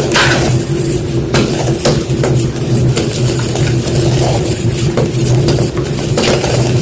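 White gym chalk crunching in a run of crisp crackles, about one every half second to second, over a steady low hum.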